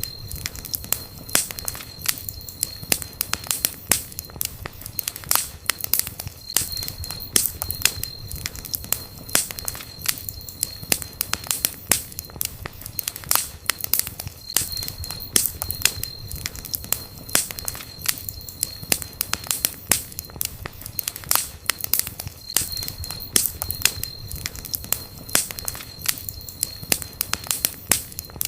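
Wood campfire burning, with dense, irregular crackles and pops over a low steady rumble of the flames. A thin high steady tone comes and goes several times.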